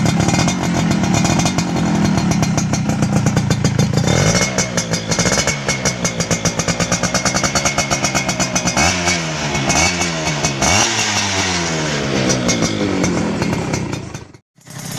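Two-stroke underbone motorcycle with a racing exhaust revving hard. It holds steady high revs for about four seconds, then runs on a choppy, stuttering throttle and gives several quick rev blips that rise and fall. A brief gap cuts in near the end.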